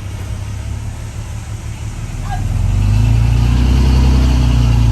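Heavy diesel engine of earthmoving machinery running, revving up about two seconds in and then holding at the higher speed.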